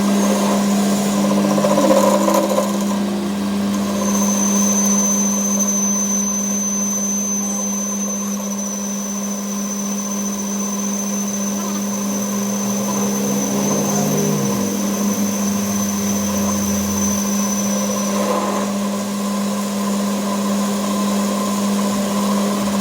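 Workshop machine tool running steadily with a constant low hum and, for most of the middle, a thin high-pitched whine, as in machining metal.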